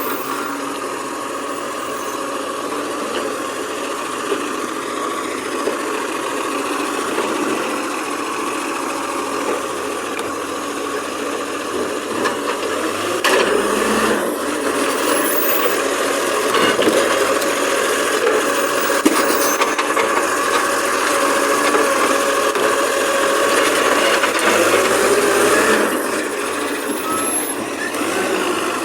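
Garbage truck running, with a steady whine over the engine and some rattling, growing somewhat louder about halfway through.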